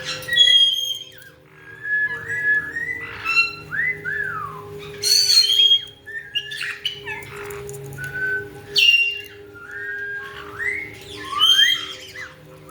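Caique parrots calling: repeated whistles that slide up and down in pitch, broken every few seconds by sharp, high squawks, over a faint steady hum.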